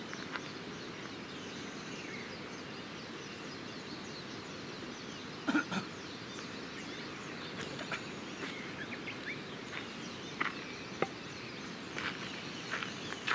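Wood campfire burning, with soft crackling and a few sharp pops, over a steady outdoor hiss.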